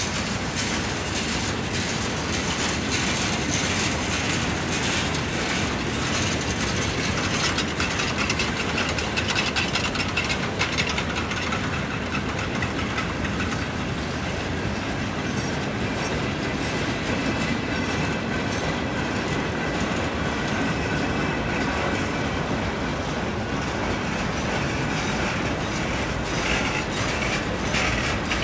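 A train's cars rolling steadily past, with wheels clicking over the rail joints and a faint, high wheel squeal at times.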